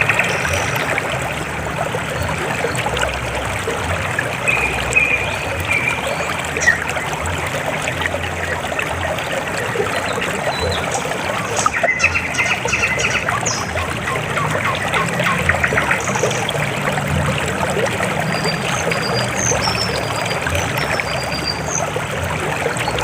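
River water flowing and trickling in a steady babble, with a few short high chirps and a brief trill over it.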